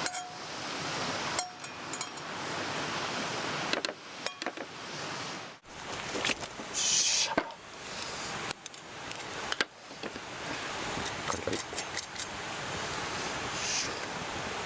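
Steady rushing of a mountain stream under small clinks and taps of utensils. About halfway in, a knife slices grilled chicken in several short crackly strokes through the crisp skin.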